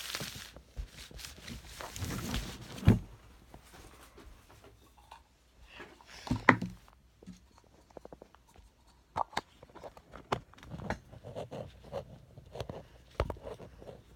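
A sheet of sketch paper being picked up and handled: scattered rustles, taps and knocks, with two louder thumps about three seconds in and again about halfway through.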